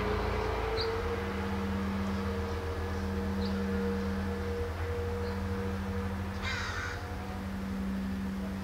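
A steady low hum runs throughout. Over it, a few faint short high chirps sound, and about six and a half seconds in a single harsh bird call lasts about half a second.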